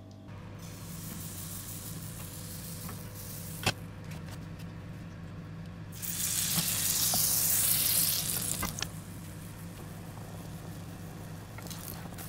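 Pancake batter with a knob of butter sizzling in a hot nonstick frying pan, a steady sizzle over a low hum. A sharp click comes about a third of the way in, and the sizzling grows louder for nearly three seconds from about halfway.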